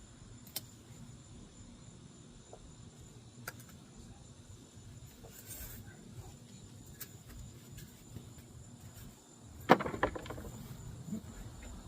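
Crickets chirring steadily in a high, thin tone, with a few faint clicks and a loud snap followed by rustling about ten seconds in.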